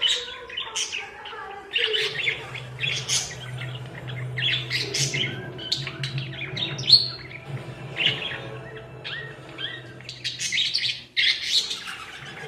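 Pet parakeets chirping and warbling in quick, dense runs of short chirps and whistles.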